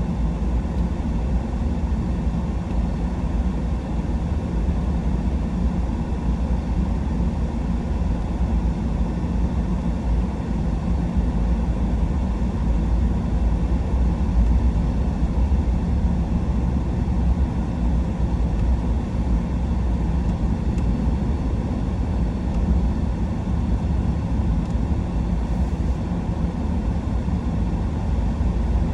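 Truck cab interior while driving: steady engine and road rumble, even throughout.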